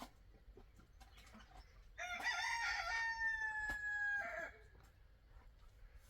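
Rooster crowing once: a single crow of about two and a half seconds ending in a long held note that falls slightly.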